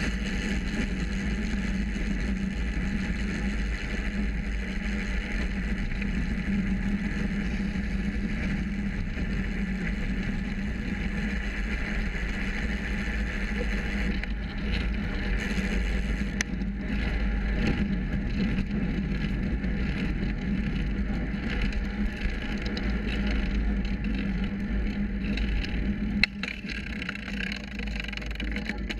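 Wind buffeting and road noise on a bicycle-mounted action camera while riding, with a steady hum and light rattling from the bike; the rattle, which the rider suspects is the gear cables knocking against their casing. The noise eases a little about 26 seconds in.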